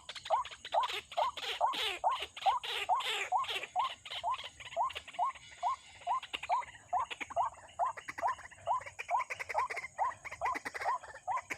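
White-breasted waterhen calls: a steady series of short, rising croaking notes, a little over two a second. Harsher, higher calls overlap them for the first few seconds and again in the second half.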